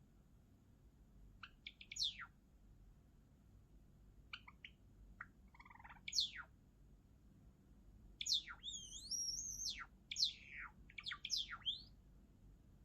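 Java sparrow singing: a few soft clicks and short chirps, then from about eight seconds in a longer song phrase with a drawn-out, wavering whistle followed by a quick run of chirping notes.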